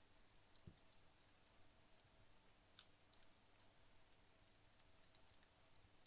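Wood logs burning in a fireplace, giving faint, sparse crackles and pops every second or so, with one soft low knock under a second in.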